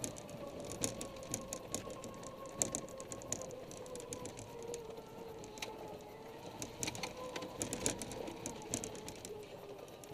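Golf cart driving, its drivetrain giving a steady whine that sinks slowly in pitch, with frequent sharp clicks and rattles.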